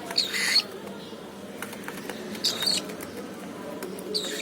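Cockatiel giving three short, high-pitched chirps: one near the start, one about midway and one near the end.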